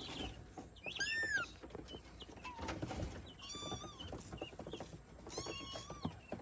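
Young kittens mewing: three short, high-pitched mews, with faint rustling and small clicks between them.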